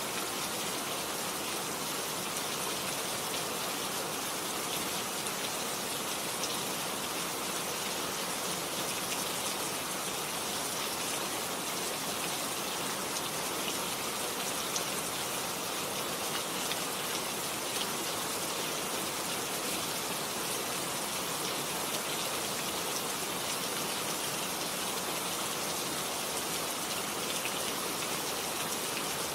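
Steady rain falling on garden plants: a dense, even hiss with fine patter of drops throughout.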